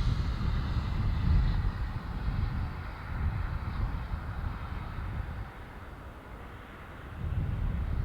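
Jet engines of an Airbus A330 airliner running steadily, with gusty wind rumbling on the microphone, strongest near the start and again near the end.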